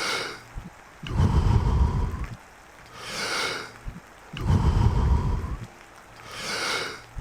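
Deep, forceful rhythmic breathing of the Wim Hof method: a hissing full inhale alternating with a fuller, lower exhale, one breath about every three seconds, near the end of a round of thirty.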